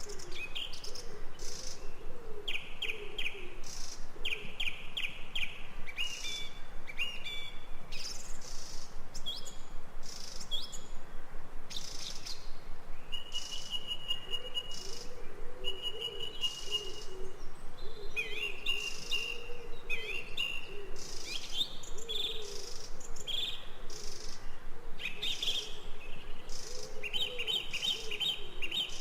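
A chorus of several birds calling over one another: quick repeated chirps and short trills, some held notes, and a low wavering cooing call underneath.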